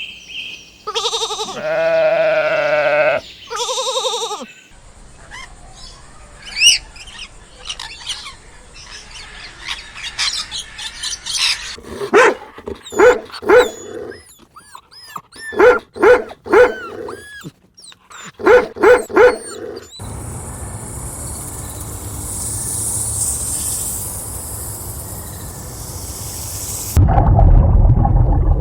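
A string of separate farm animal recordings: wavering bleats for the first few seconds, then faint high chirps, then a run of short, loud calls in clusters of two or three. After that comes a steady noise without calls, and a low rumbling noise near the end.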